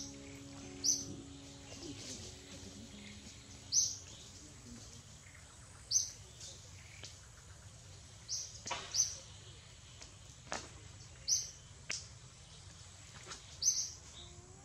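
A bird calling with a short, high chirp repeated about every two seconds, over faint outdoor background, with a few soft clicks in the second half.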